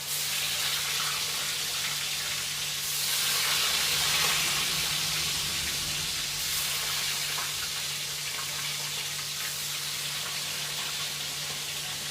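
Tofu sizzling as it fries in hot oil, a continuous hiss that swells louder about three seconds in and then settles. A steady low hum runs underneath.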